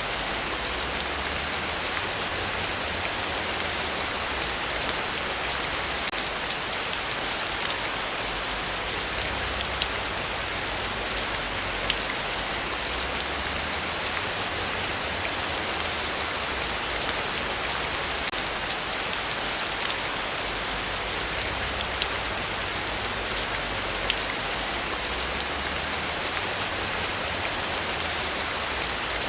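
Heavy rain falling steadily: a dense, even hiss of many drops striking surfaces, with a low rumble underneath.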